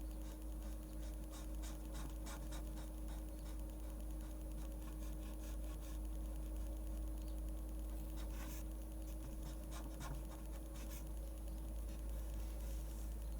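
Pen scratching on paper in many short, irregular strokes while drawing manga, with a few longer strokes, over a steady low hum.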